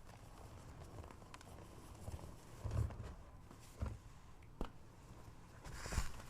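A rectangular block of gym chalk being crushed, making a few separate soft crunches and thumps. Near the end comes a longer, louder powdery crumble.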